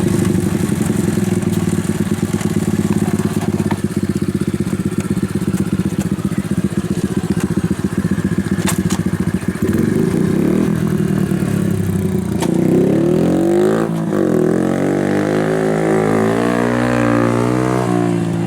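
Honda Super Cub's single-cylinder four-stroke engine with a RAIJIN aftermarket muffler, running at a steady pulsing speed, then from about twelve seconds in revving, its pitch rising and falling again and again as it accelerates and eases off.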